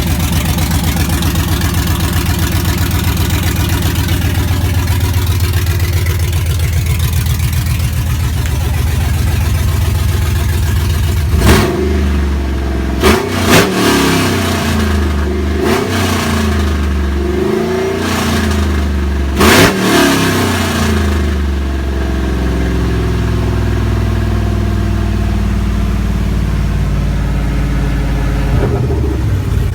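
LQ9 6.0-litre V8 idling steadily just after its first start following an engine swap, then revved in several quick throttle blips through the middle before settling back to a steady idle.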